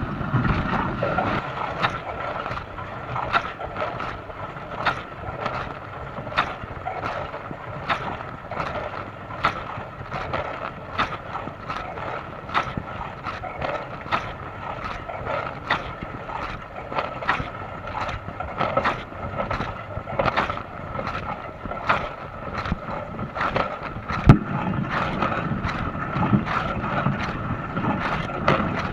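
Dishwasher running its wash cycle: water spraying steadily over a pump hum, with a rhythmic splash about every second and a half. One louder thump about 24 seconds in.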